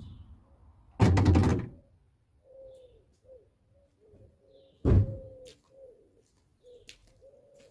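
A brief clattering rattle about a second in, then a car door shutting with a single heavy thunk near five seconds. Pigeons coo faintly in short repeated calls.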